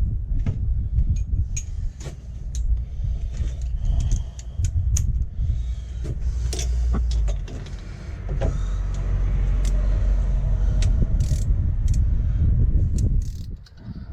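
A loud, uneven low rumble that drops away near the end, with scattered sharp metallic clicks and taps of parts and tools being handled.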